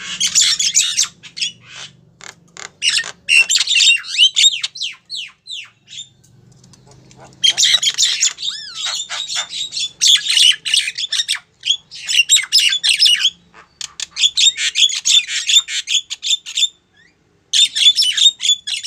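Javan myna giving harsh, chattering squawks mixed with whistled glides, in bouts of a few seconds with short pauses between. It is a female myna calling a male, as the recording is labelled.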